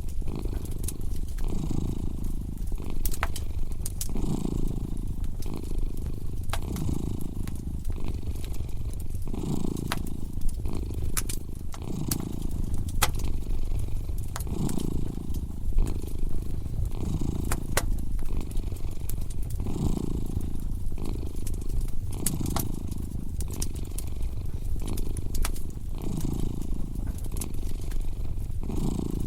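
A cat purring close up, its low rumble swelling and fading with each breath about once every second or two. Over it, a wood fire crackles with scattered sharp pops.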